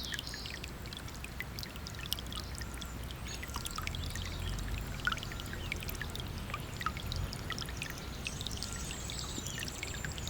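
River water running and pouring over a low rumble, with many short high splashes and chirps scattered through it.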